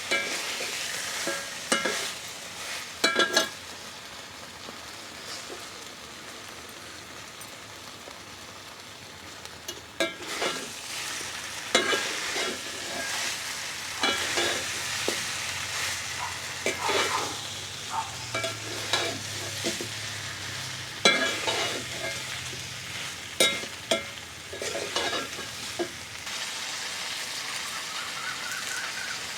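Chicken sizzling as it fries in oil in a pan, with a steady hiss and repeated scrapes and clinks as it is stirred against the pan.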